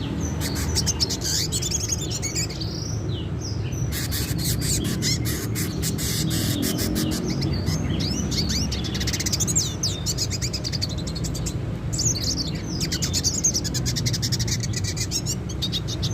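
Red siskin (dilute colour mutation) singing a fast twittering song of chirps, trills and short glides, in runs with brief pauses, over a steady low background hum.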